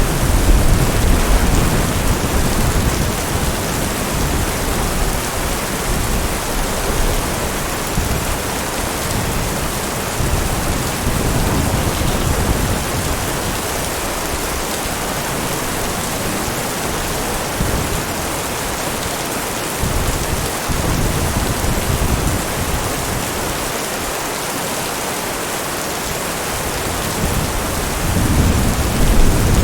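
Heavy rain falling steadily with low rolls of thunder, loudest just at the start and swelling again near the end.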